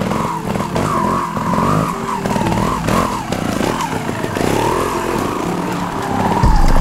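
Scorpa trials motorcycle engine revving in repeated short throttle blips, its pitch rising and falling again and again.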